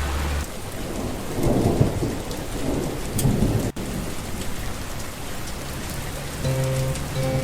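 Steady rain ambience with low rumbles of thunder swelling in the first half.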